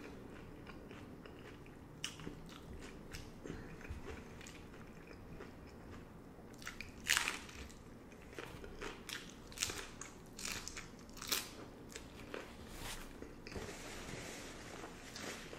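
Close-up chewing and biting of crunchy hard-shell beef tacos, with irregular crisp crunches; the loudest comes about seven seconds in. Near the end a paper napkin rustles.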